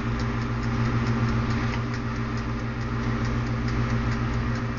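Toaster oven running: a steady electrical hum, with the light ticking of its wind-up timer, about three ticks a second.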